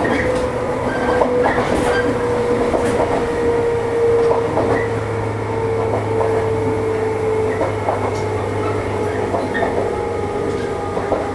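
JR 115-series electric train running, heard from inside the car: a steady motor-and-gear whine and hum over rolling rail noise, with scattered wheel clicks over rail joints. The whine sinks slightly in pitch through the latter half.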